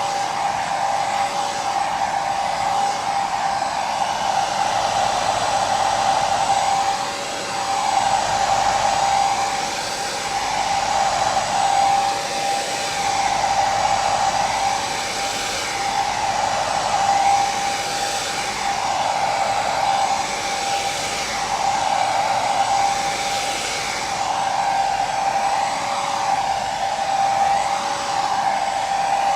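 Hair dryer running steadily: a constant rushing hiss of air over a steady motor whine, the hiss wavering slowly.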